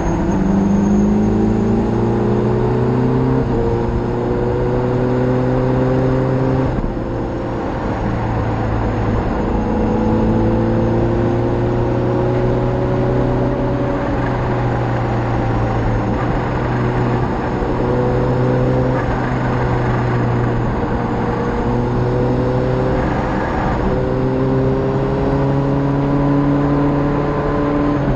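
Motorcycle engine under way, rising in pitch and dropping back every few seconds as it accelerates through the gears, with steady wind and road noise.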